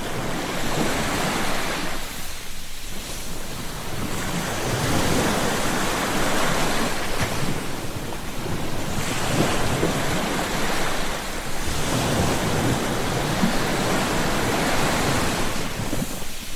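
Ocean waves breaking and washing up on shore, the surf swelling and easing every few seconds, with some wind noise on the microphone.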